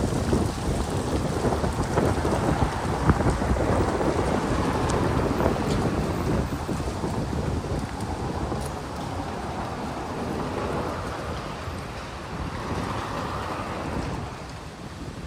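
Wind buffeting the microphone: a loud, unsteady rumbling noise that slowly eases off over the last few seconds.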